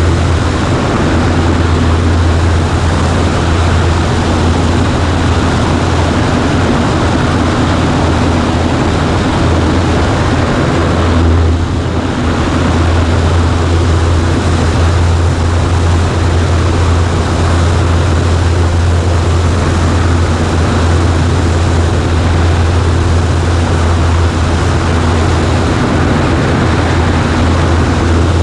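Cessna 140A's piston engine and propeller running steadily as a loud, even drone, with the noise briefly dipping about eleven seconds in.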